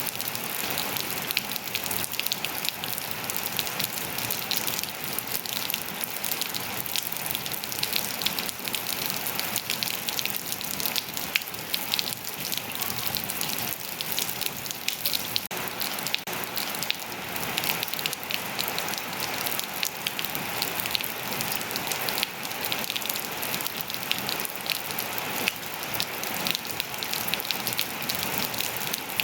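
Steady rain falling on surfaces, a dense even hiss with many close individual drop patters and no letup.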